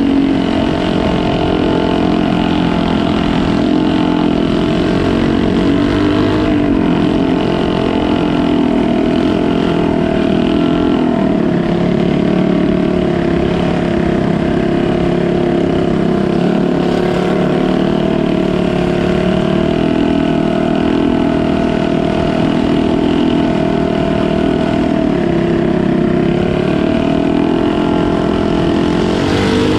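Canal boat engine running loud and steady, its pitch wavering slightly up and down.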